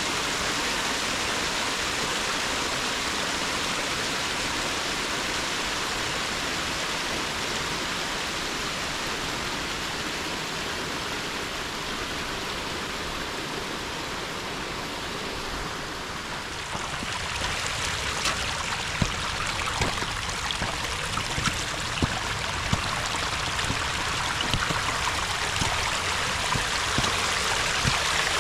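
Rushing water of a hill burn running full after heavy rain, a steady hiss and rush. About two-thirds of the way through it changes and turns slightly brighter, with scattered sharp clicks over it.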